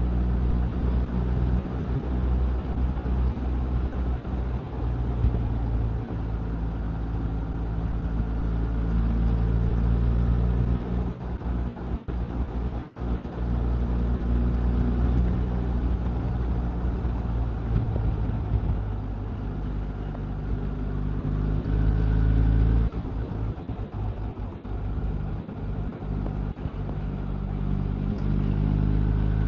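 Motorcycle engine running at road speed with wind and road noise. The engine note shifts a couple of times as the speed changes.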